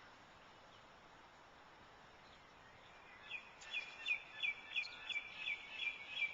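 A bird calling: a run of about nine short, downward-sliding notes, about three a second, starting about halfway through, over a steady faint outdoor hiss.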